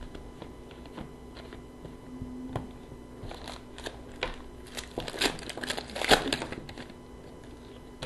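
Hockey trading cards being handled and flipped through, with a pack wrapper crinkling: quiet rustles and light clicks that come thickest from about three and a half to six and a half seconds in.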